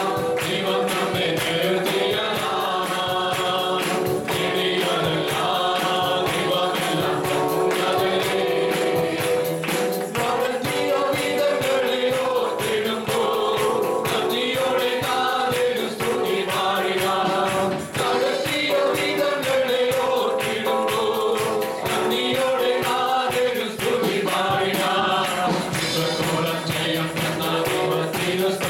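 A congregation singing a Malayalam Christian worship song in unison, with band accompaniment and a steady, fast percussion beat.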